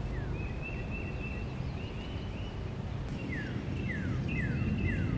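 Songbirds singing: a high warbling line and a run of short, quickly falling whistles, about five of them in the second half, over a steady low background rumble.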